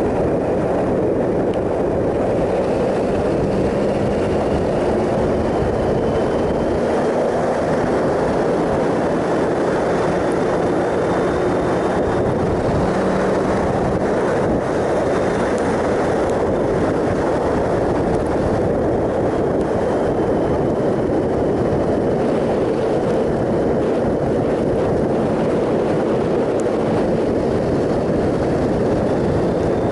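Triumph Sprint ST 1050's three-cylinder engine running at a steady cruise under a loud, even rush of wind and road noise.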